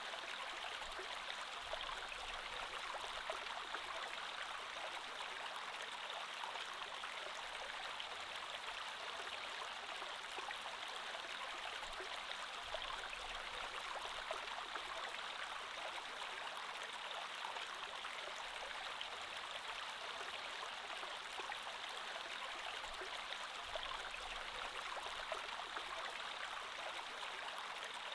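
Creek water flowing steadily, an even rush with fine splashes and trickles throughout.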